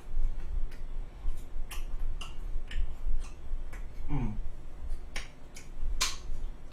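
Close-miked chewing: a string of wet mouth clicks and smacks, about every half second, with a short rising 'mm' hum about four seconds in. Near the end comes a sharper, louder clink as a fork goes into the pasta pan.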